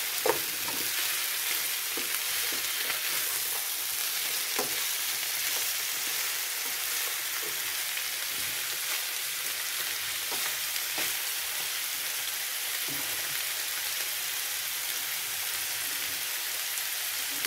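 Chicken pieces and potatoes frying in oil in a non-stick pan, a steady sizzle, with a few short knocks of a spatula against the pan.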